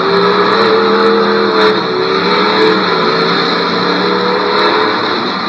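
Demolition derby car engines revving hard, a pitched drone that wavers up and down over a dense din, with a few brief sharp clicks.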